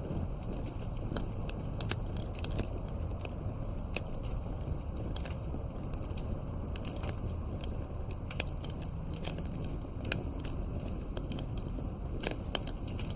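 Campfire burning, wood crackling and popping in quick irregular snaps over a low steady rumble of flames.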